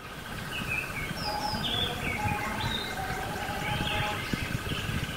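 Several birds chirping and calling over a steady outdoor background.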